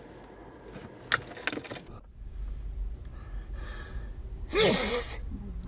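A few sharp clicks, then a person's short, loud startled gasp or cry inside a car.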